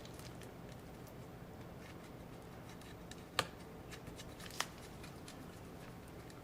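Small clicks and faint handling noises of hands and tools working on laptop parts, with two sharp clicks about a second apart near the middle, over a steady low hum.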